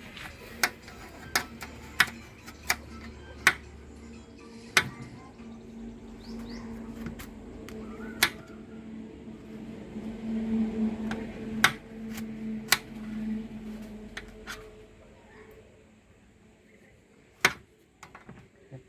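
A dozen or so sharp clicks and knocks at irregular intervals, over a steady low hum that runs from about four seconds in to about fifteen seconds in.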